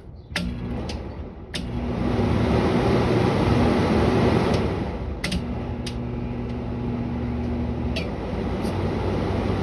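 Window air conditioner running: fan air rushing over a steady low hum. A click about a second and a half in, after which the air noise gets louder, and a few more clicks later.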